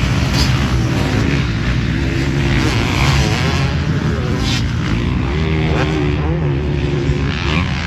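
Dirt bike engines racing, their pitch rising and falling as the riders work the throttle.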